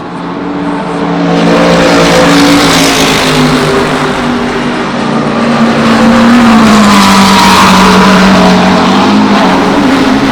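Race cars running at speed past the trackside, their engines loud. The level builds over the first couple of seconds, and an engine note drops in pitch as a car goes by partway through.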